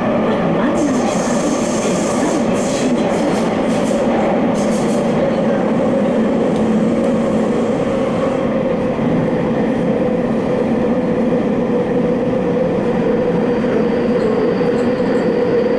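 Tokyo Metro Fukutoshin Line subway train running at speed through a tunnel: a steady rumble of wheels on rail with a steady motor hum, and brief high crackling and hissing in the first few seconds.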